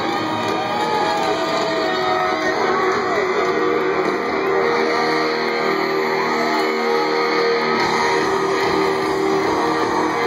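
Live rock band playing loud and steady, with electric guitar to the fore and its notes bent and held with vibrato.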